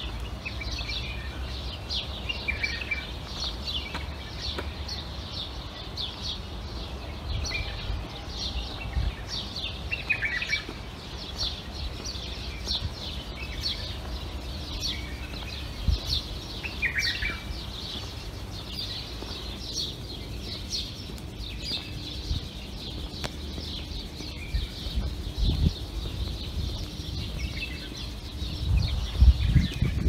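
Small songbirds chirping: a rapid, continuous run of short high chirps, several a second, with an occasional lower call from another bird. A few low thuds come through, the loudest near the end.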